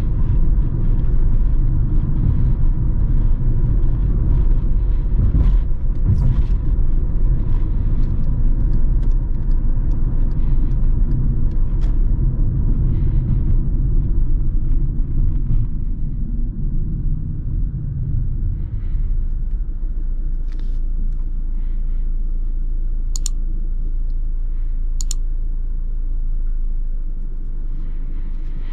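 A steady, loud low rumble with scattered light clicks and knocks, easing off about two-thirds of the way through; two sharp clicks come near the end.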